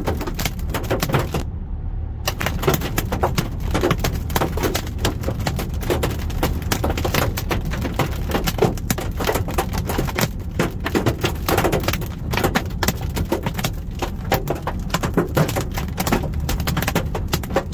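Golf-ball-size hailstones pelting a car's roof, hood and windshield, heard from inside the cabin: a dense, irregular clatter of hard impacts over a steady low rumble. The hail is denting the car.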